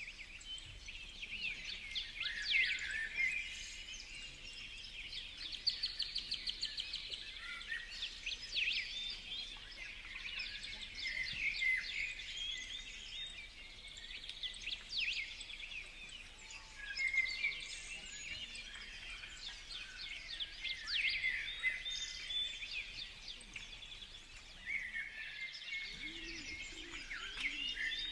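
Several small birds chirping and calling over each other, with a fast trill about six seconds in. Low cooing calls come in near the end.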